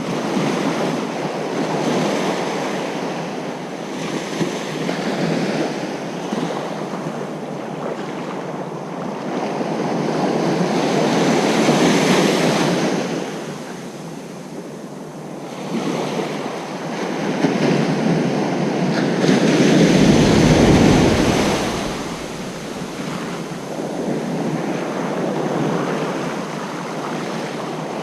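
Ocean surf on a beach: waves breaking and washing in, in slow surges that swell loudest about twelve seconds in and again around twenty seconds in, with a deeper rumble on the second surge.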